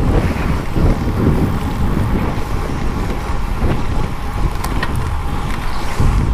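Wind buffeting an unshielded camera microphone while riding a bicycle: a loud, gusting rumble.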